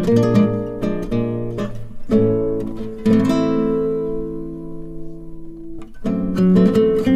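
Background music of acoustic guitar: quick plucked and strummed chords, with a long chord left ringing out in the middle before the plucking picks up again.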